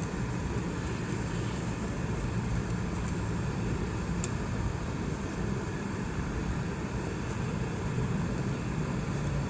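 Boeing 717 jet airliner heard from inside the cabin: the steady drone of its rear-mounted Rolls-Royce BR715 turbofans and the air noise, running at a constant level.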